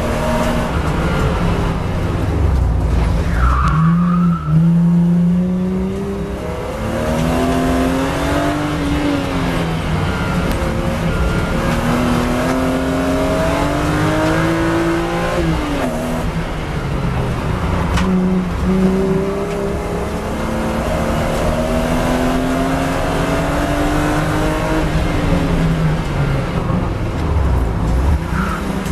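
BMW E36 M3's 3.2-litre straight-six heard on board under hard acceleration on track, its pitch rising in long sweeps and dropping sharply several times as it shifts or lifts for corners.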